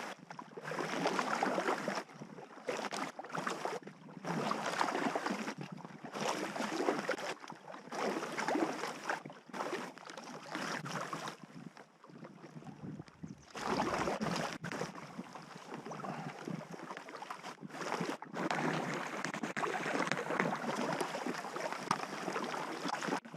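Packraft paddling on a river: paddle strokes splashing and swishing in the water in uneven swells every second or two.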